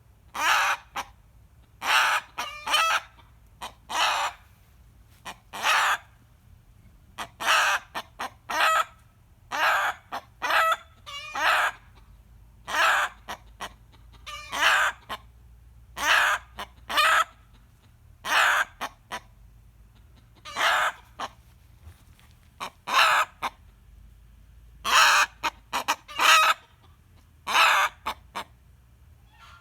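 Rooster screaming: short, loud, harsh calls repeated about every one to two seconds. This is his usual reaction to hearing a hen cackle.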